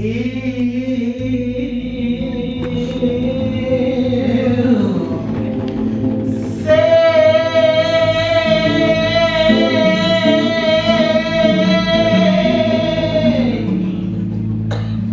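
Live music with a singer holding long wordless notes over sustained accompaniment; the loudest note, in the second half, is held for about seven seconds.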